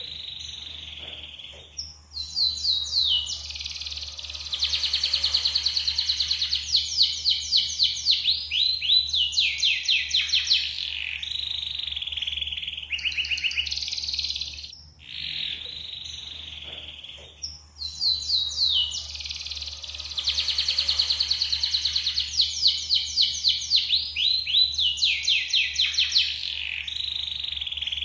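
Yellow canary singing: two long song phrases of rapid trills and rolling notes, with a short break near the middle. A faint steady low hum lies underneath.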